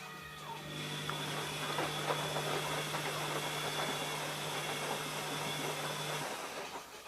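ELIN A 100 E washing machine running with a steady hum and a rushing noise for about five and a half seconds, then stopping.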